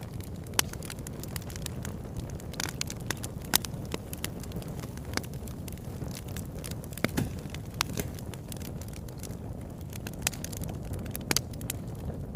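Wood fire burning in a fireplace: a steady low rumble of flames with irregular sharp crackles and pops, a few of them louder, one about a third of the way in and others around the middle and near the end.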